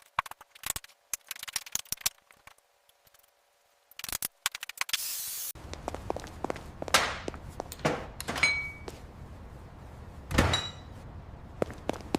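A montage of workshop work sounds: scattered clicks and knocks, then a short spray hiss about four and a half seconds in. After that a steady low rumble runs under more knocks, clanks and swishes, with the loudest hit near the end.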